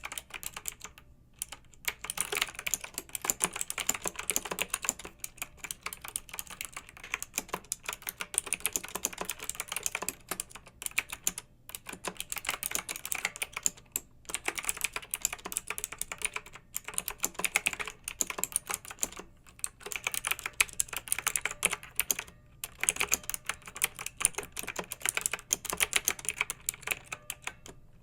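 Clicky mechanical keyboard being typed on fast, in runs of rapid keystrokes broken by brief pauses.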